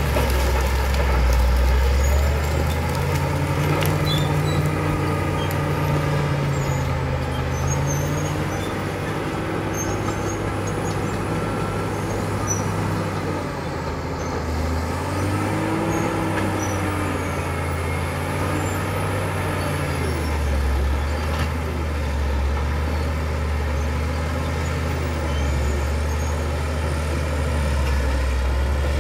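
Caterpillar D7 bulldozer's diesel engine running under working load, its pitch rising and falling a few times as the load changes.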